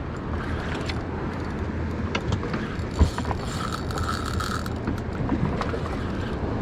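A boat's engine running steadily at low speed, with water and wind noise around the hull and a single sharp knock about three seconds in.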